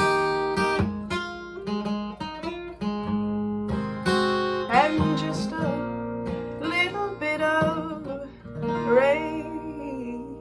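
Acoustic guitar played with sharply struck chord notes, with a voice singing over it from about halfway through and the sound easing off near the end.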